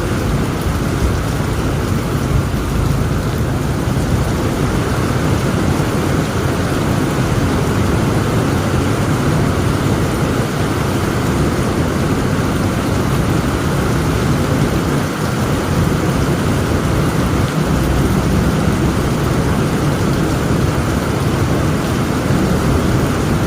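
Heavy rain falling steadily, with a deep low rumble underneath.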